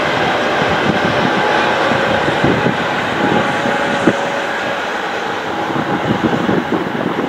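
Frecciarossa high-speed electric train passing at speed: a steady rushing, rolling noise with rail clatter and one sharp knock about four seconds in, slowly fading toward the end.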